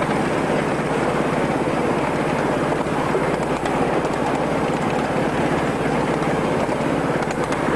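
Ride-on miniature railway train running along the track: a steady rumbling run with no break.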